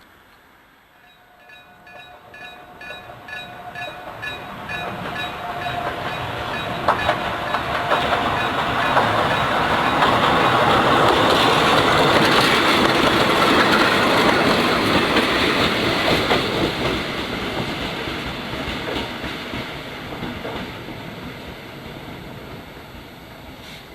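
Electric level-crossing bell (den-shō) ringing in rapid, evenly repeated strikes. A two-car Meitetsu Tanigumi Line electric train then runs past with rumbling wheels and clattering rail joints. It is loudest in the middle and fades away near the end, covering the bell.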